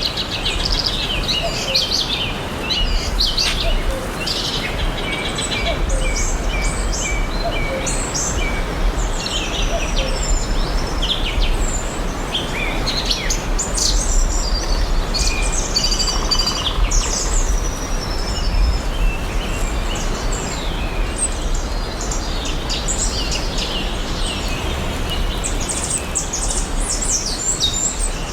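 Several songbirds chirping and singing in a forest, with many short high chirps and trills overlapping throughout, over a steady background hiss and low rumble.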